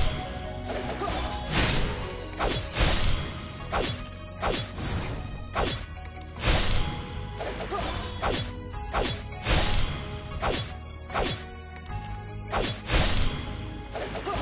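Repeated sharp strikes, irregularly spaced about one a second, over a steady background of held tones.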